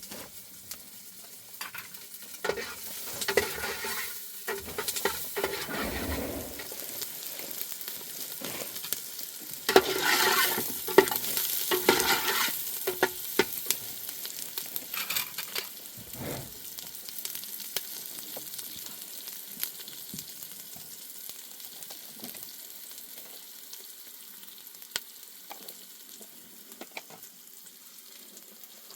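Hands working bread dough in a basin, in two spells of scraping and rubbing in the first half. Under them and after them runs a steady crackling hiss with occasional sharp ticks, like a wood fire burning.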